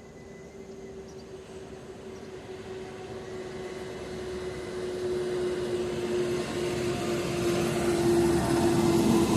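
A train approaching and growing steadily louder, with a steady humming tone that sinks very slightly in pitch as it comes.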